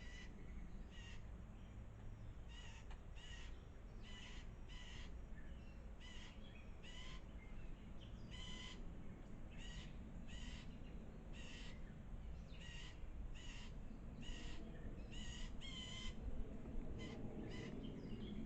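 A bird calling over and over with short, harsh calls, often in pairs, at about one a second.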